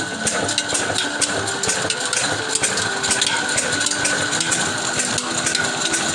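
Old water-pumping machine running, its mechanism clattering with a steady stream of clicks and knocks.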